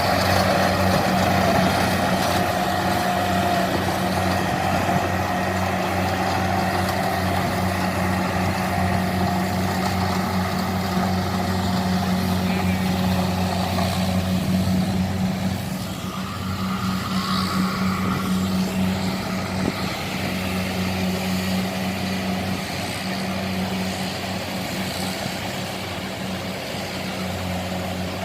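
Kubota DC-70 combine harvester's diesel engine running at a steady speed, a little quieter from about halfway through.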